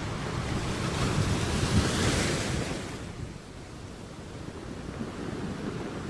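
Sea surf: a wave builds, breaks about two seconds in and fades by about three seconds, leaving a lower, steady wash.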